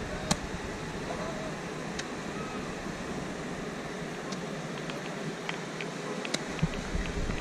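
Scattered sharp pops and snaps from small novelty fireworks: a few separate louder cracks and, past the middle, a run of faint crackles, over steady outdoor background noise.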